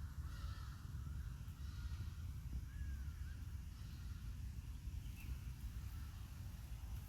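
Birds calling now and then, with short bending calls, over a steady low rumble.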